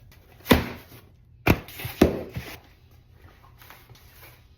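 A hamster cage being handled: about four sharp knocks and clatters in the first half, then quiet handling noise.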